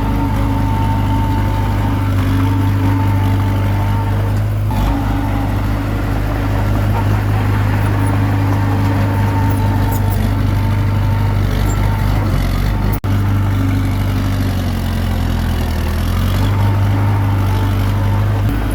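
Komatsu D21P bulldozer's diesel engine running steadily, its pitch shifting a little now and then. The sound cuts out for an instant about two-thirds of the way through.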